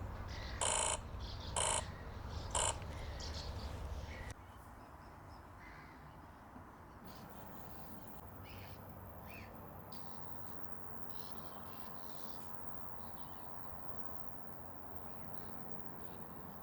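A crow cawing three times, about a second apart, harsh and loud. After that only a quiet background with faint, scattered calls of small birds.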